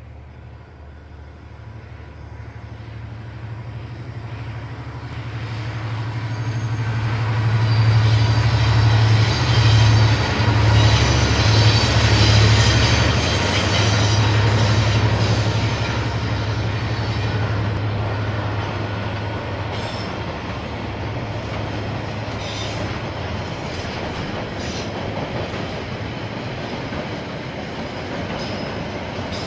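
KiwiRail diesel train passing. The locomotive's low engine drone builds over the first several seconds, is loudest about 8 to 13 seconds in, then drops away. A steady rolling noise of wagon wheels on the rails carries on after it.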